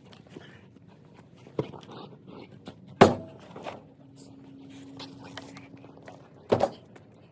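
Pieces of firewood being tossed into a utility vehicle's bed, landing with a few separate thunks: one about a second and a half in, the loudest about three seconds in, and a quick double knock near the end.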